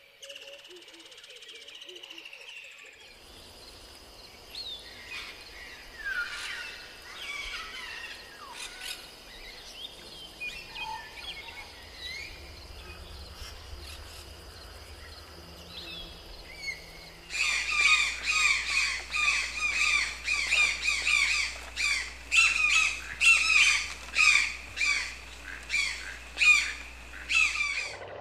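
Tropical rainforest ambience: assorted birds chirping and calling over a steady high drone. About two-thirds of the way through, a loud bird call begins repeating rapidly, about two calls a second, and keeps on.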